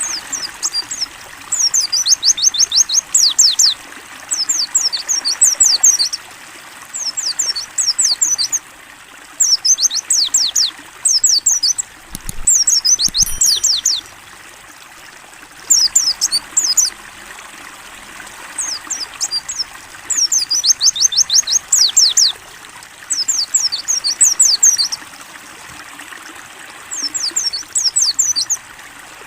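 White-eye (pleci) singing in repeated phrases of rapid, high, downward-sweeping notes, each phrase a second or two long with short pauses between, over steadily trickling water.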